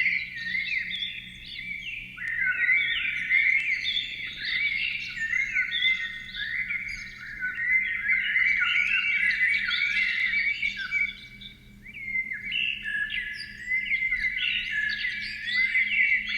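A flock of small birds chirping and twittering together: many short, overlapping high chirps with hardly a pause. Underneath runs a faint steady low hum.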